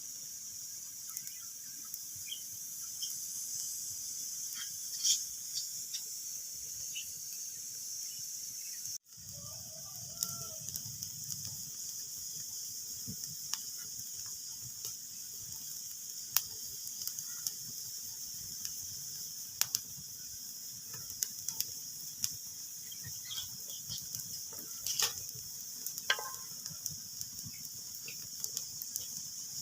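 Wood fire crackling in a fireplace: a steady hiss scattered with sharp pops and snaps. The sound cuts out for an instant about nine seconds in.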